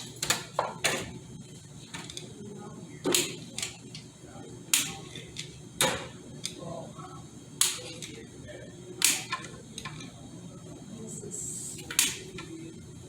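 Sharp metallic clicks and knocks at irregular intervals, a quick cluster at the start and then single strikes every second or two, from hand tools working on parts of a Ford AOD automatic transmission being taken apart.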